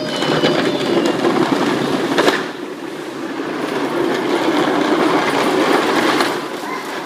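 Hard plastic wheels of Bobby Car ride-on toy cars rolling fast over pavement, a loud rumbling clatter that swells and dips, with a sharp knock about two seconds in.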